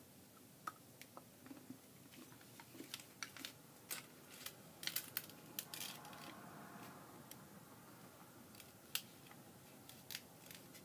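Quiet, scattered mouth clicks and smacks from someone chewing a bite of chocolate bar with a soft frosting filling, busiest about halfway through.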